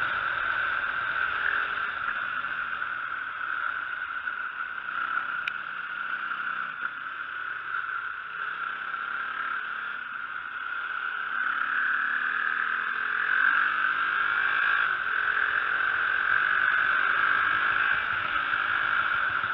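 Dirt bike engine running while riding, its pitch rising and falling as the throttle is opened and closed, under a steady rushing noise that is the loudest part. A single sharp tick comes about five and a half seconds in.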